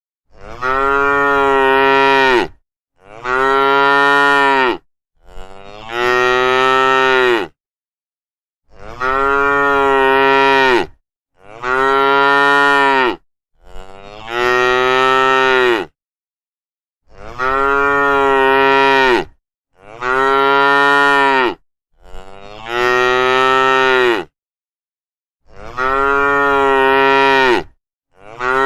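Cattle mooing: a run of about eleven long, steady moos of around two seconds each, one after another with short pauses between.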